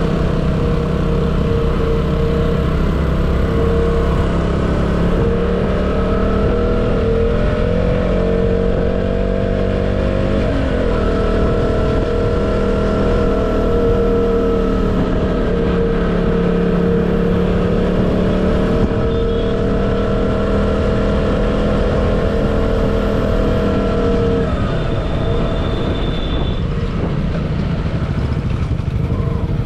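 Motorcycle engine running while riding, its pitch dipping and picking up again with the throttle about ten seconds in and easing off near the end, over a steady low rush of road noise.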